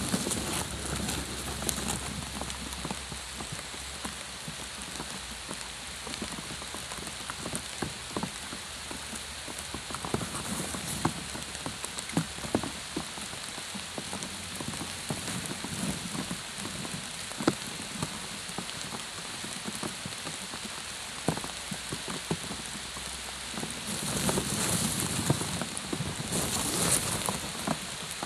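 Steady rain falling on water and grass, an even patter dotted with sharper individual drops. Near the end a louder stretch of rustling rises over it for a few seconds.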